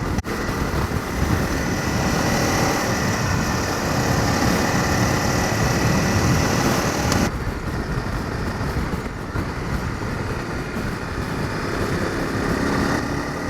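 Honda CRF250 Rally's single-cylinder engine running under way on a sandy gravel road, mixed with a steady rush of wind and tyre noise. The high hiss drops off abruptly about seven seconds in.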